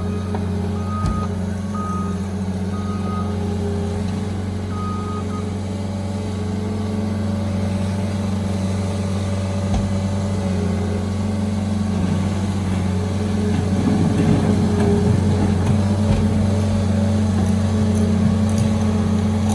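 Earth-moving machine's engine running steadily under load, with its reversing alarm beeping about five times in the first few seconds.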